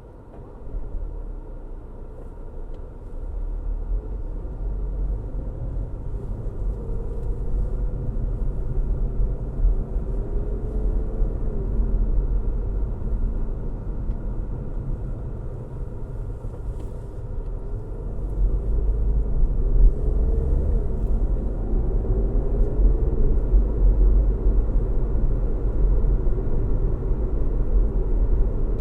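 Car on the move: a steady low road-and-engine rumble, with a faint engine note drifting up and down in pitch. It grows louder about a second in and again a little past the middle.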